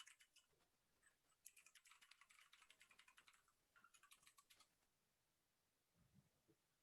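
Faint typing on a computer keyboard: a quick run of keystrokes for about two seconds, a short pause, then a shorter run.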